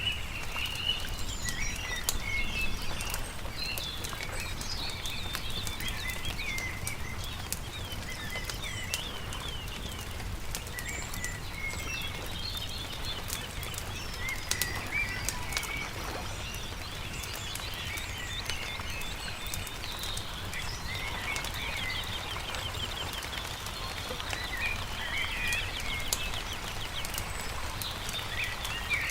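Several songbirds singing: many short chirps and quick trills. Under them a campfire crackles with scattered sharp pops, over a steady low rumble.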